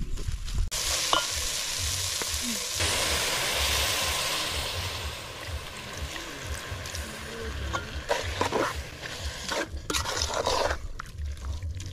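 Omena (small fish) sizzling in a large metal cooking pot as fresh milk is poured in and stirred with a spoon. The sizzle is loudest a few seconds in, and the spoon scrapes against the pot several times near the end.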